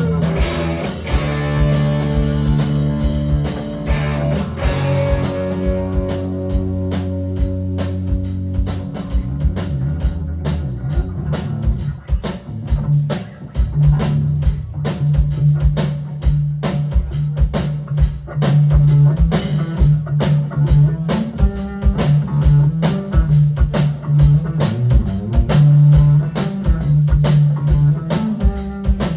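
Band playing an instrumental passage on electric guitar, bass and drum kit. For the first several seconds there are held chords, then from about twelve seconds in a driving beat with a busy bass line.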